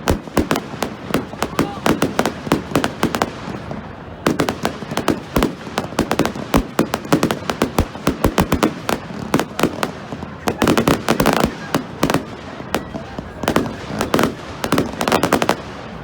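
Fireworks going off in a continuous barrage of sharp bangs and crackles, several a second, with denser clusters around ten seconds in and again near the end.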